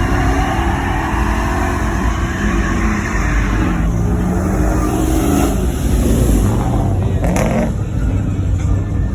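Loud vehicle engine running and revving, with a deep rumble, and music playing under it. The engine's higher-pitched noise drops away about four seconds in, and there is a short sharp burst near the end.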